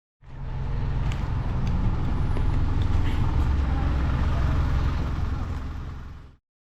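A motor vehicle running with a heavy, steady low rumble, rising in at the start and cut off abruptly after about six seconds.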